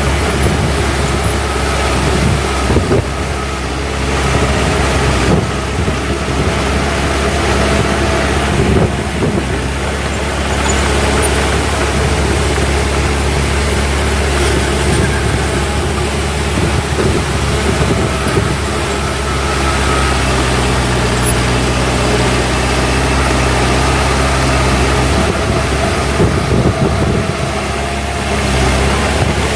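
Heavy construction machinery running: the diesel engines of dump trucks and a bulldozer, steady, with the engine note shifting about two-thirds of the way through.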